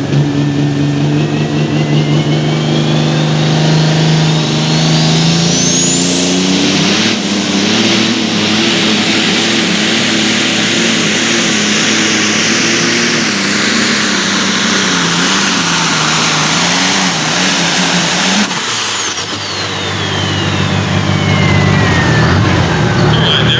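Turbocharged pulling-vehicle engine run at full throttle through a pull, its turbocharger whine climbing steeply over the first seven seconds, then held high. About 18 seconds in the throttle comes off and the whine winds down as the engine drops back.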